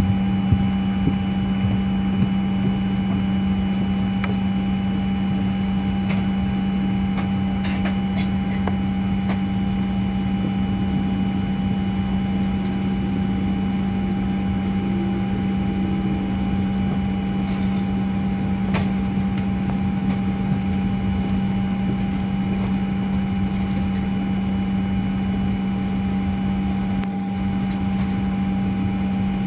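Steady cabin hum inside a Boeing 737-900 airliner: a strong constant low tone with fainter higher tones over an even rush of air, and a few faint clicks.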